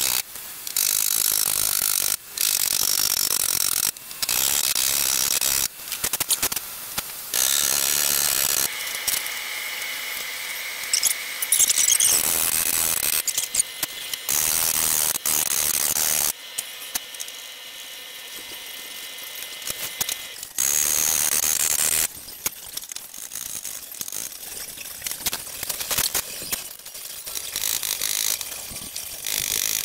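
Rapid rattling taps of a paintless dent repair knockdown tool on a car fender's sheet metal, knocking down high spots. The tapping comes in short stretches of one to two seconds that start and stop abruptly, with quieter gaps between.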